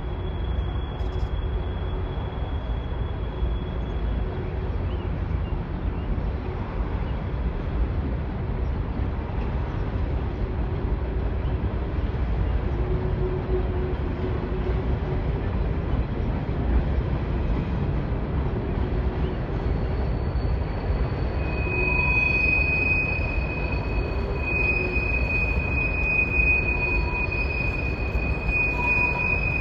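Norfolk Southern coal hopper cars rolling past with a steady low rumble. A thin high squeal sounds briefly at the start, and from about two-thirds of the way in a louder, steady high-pitched wheel squeal sets in and continues.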